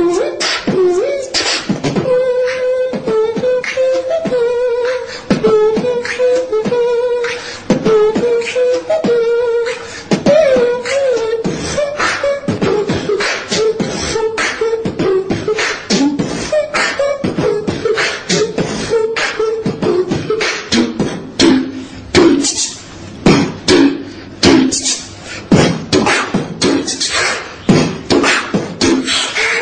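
Beatboxing: fast mouth-made drum hits and clicks over a hummed bass line held at the same time, played through a TV's speaker and recorded on a phone.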